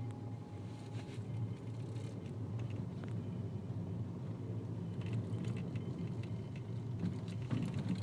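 Steady low rumble of a car moving slowly, with faint light clicks and rattles.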